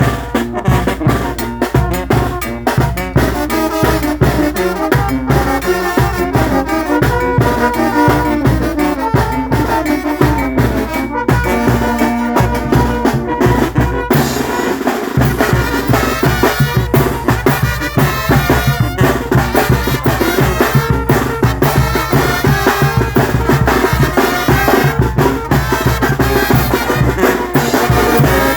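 A Mexican brass band (banda) from Guerrero playing, with trumpets, trombones and drums keeping a steady beat; the music changes character about halfway through.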